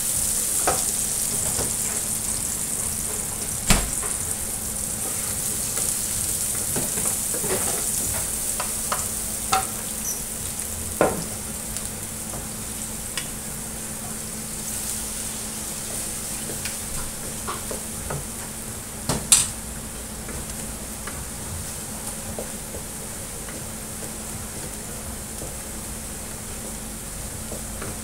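Food sizzling in hot oil in a frying pan for fried rice, stirred with a spatula that gives scattered sharp clicks against the pan. The sizzle is strongest at first and slowly dies down.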